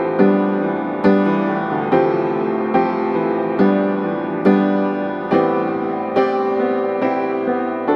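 Background piano music: slow, evenly paced chords, each struck note ringing and fading before the next, about one a second.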